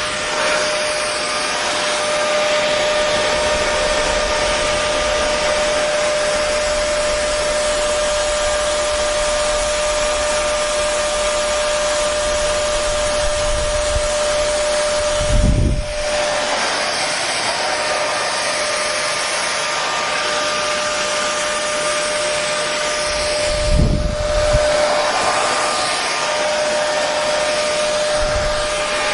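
Electric hair dryer running steadily: an even rushing whoosh of blown air with a constant motor hum. Two brief low bumps break it, about halfway through and again later.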